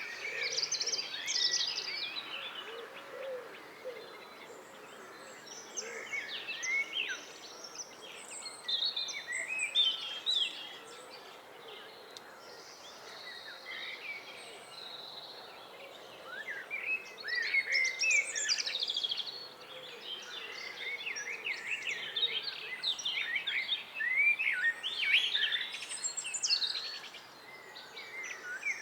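Several songbirds singing and calling over one another in short, quick chirping and whistled phrases. It is busy at first, thinner for a stretch in the middle, and busy again from about halfway on.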